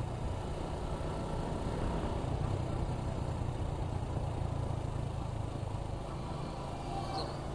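Suzuki Gixxer 155's single-cylinder engine running at a steady pace while the motorcycle cruises.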